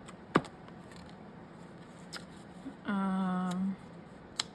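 Sharp clicks from craft pieces being handled on a desk, a loud one about half a second in and another near the end, with a woman's short, level hum in between.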